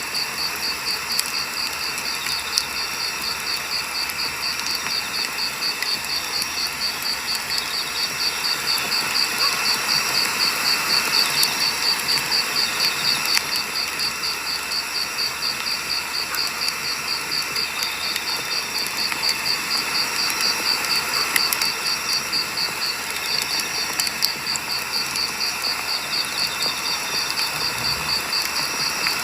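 Firewood burning in a campfire: a steady hiss and crackle with scattered sharp pops. Over it an insect chirps high and fast, in an even pulsing rhythm that barely breaks.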